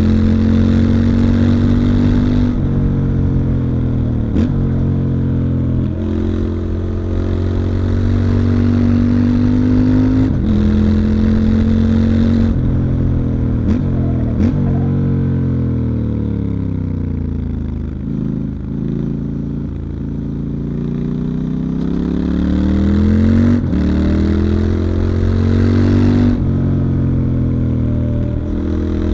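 Stock 2019 Triumph Scrambler 1200 XE's 1200 cc parallel-twin engine under way. It pulls up through several gears, the pitch climbing and then stepping down at each upshift, and the revs fall away steadily for several seconds as the bike slows. About three quarters of the way through it accelerates again through two more shifts.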